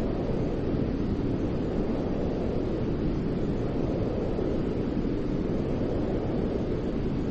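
Steady baby-soothing white-noise track: an even, deep rushing hiss, heavier in the low range than in the highs, with no changes.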